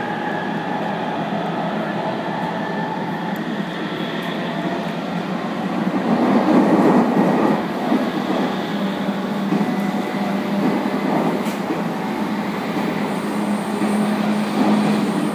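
Running noise heard inside a JR 811 series electric commuter train in motion: steady rumble of wheels on rails with a low, even hum, swelling louder for a second or two about six seconds in.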